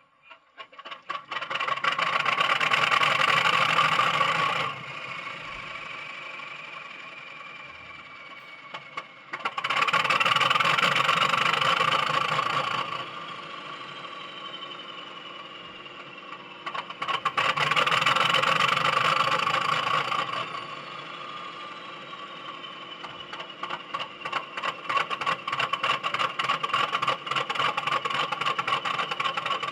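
Sound-fitted OO-gauge Accurascale Class 31 model diesel running with a freight train, its speaker playing the English Electric engine sound while its wheels rattle on the track. The sound swells loud and fades back three times, then settles into a fast rhythmic clatter near the end.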